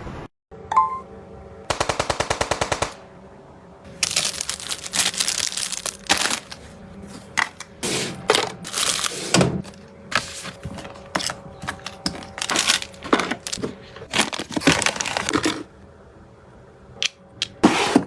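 Household objects being handled. About two seconds in there is a rapid run of evenly spaced clicks lasting about a second. Then comes a long stretch of irregular rustling, scraping and clattering, with a few more bursts near the end.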